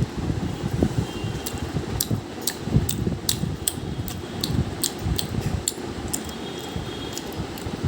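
Open-mouthed chewing of sweets, with irregular wet smacks and sharp mouth clicks, over a steady background hum like a fan.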